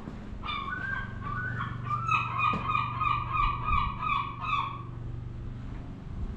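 A bird calling: a run of quick, repeated pitched notes, about three a second, lasting around four seconds and then stopping.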